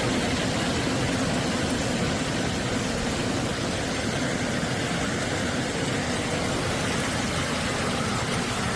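Hailstorm: hail and heavy rain falling in a steady, dense hiss.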